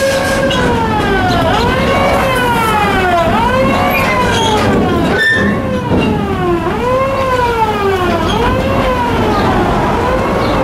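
Rumble of a moving amusement-park train under a high squeal that slides down and back up in pitch over and over, about every one and a half to two seconds.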